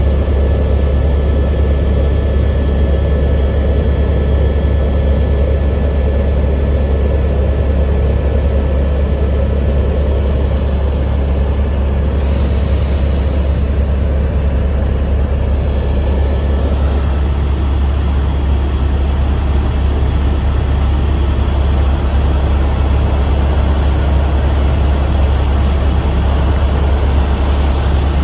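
Helicopter engine and rotor running steadily, a loud, even, deep drone.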